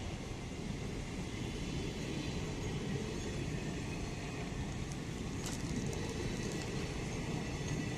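Passenger train running on the rails, a steady rumble with a brief clatter about five and a half seconds in.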